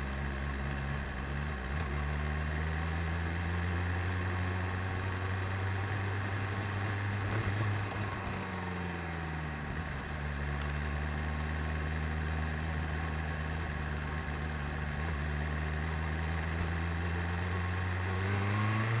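BMW S1000RR's inline-four engine running steadily at low revs, with a brief dip and rise in pitch about eight to ten seconds in.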